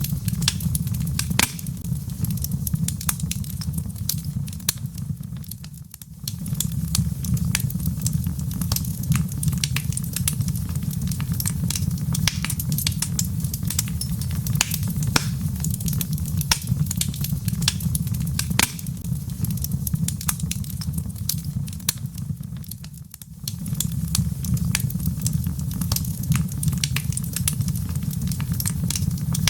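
Wood fire burning in a fireplace: a steady low rumble of flames with frequent sharp crackles and pops from the logs. The sound fades down briefly and comes back twice, about six seconds in and again past twenty seconds.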